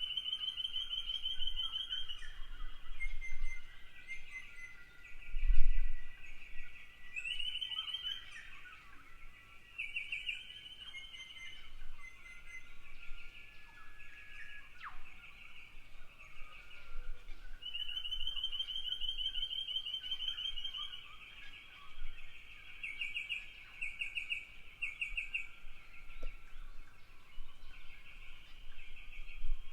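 Small birds giving rapid, high-pitched trilling calls, phrase after phrase every few seconds. About five and a half seconds in there is a brief low thump, the loudest sound.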